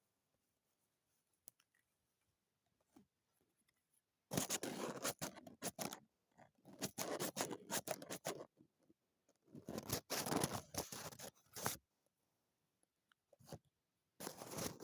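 Scissors cutting paper: after a few quiet seconds, three runs of quick crisp snips, each about two seconds long, and a short run near the end.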